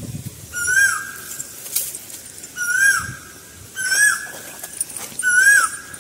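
A bird calling four times, each call a short note that flicks up and then holds steady.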